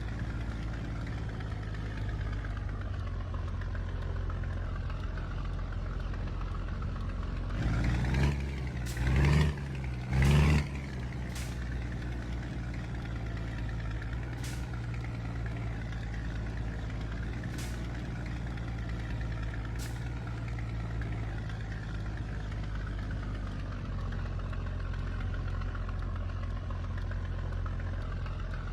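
Scania truck diesel engine running steadily, with three short louder bursts of noise about eight to ten seconds in and a few faint clicks afterwards.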